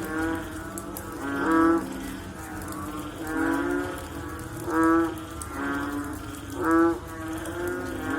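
Several frogs calling after rain, overlapping in turn: each call a short pitched note about half a second long, repeated every second or so, some a little lower than others.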